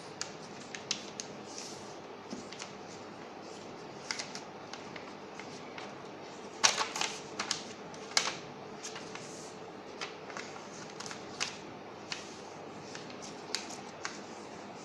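Sheet of paper being handled, folded and creased by hand: irregular crisp crackles and taps, with a louder cluster about seven to eight seconds in, over a steady faint hiss.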